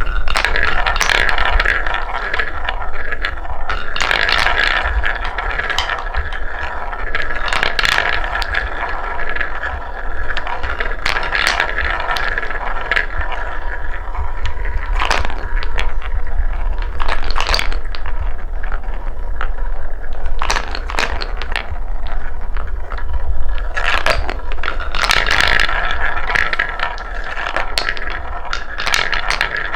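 Wooden balls rolling down a wooden marble-run track: a continuous rolling rattle broken by frequent clicks and knocks as the balls drop and strike the track pieces.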